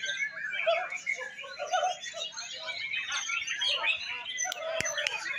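Many caged competition songbirds singing at once, a dense tangle of overlapping chirps, trills and warbles, with people talking underneath and a few sharp clicks near the end.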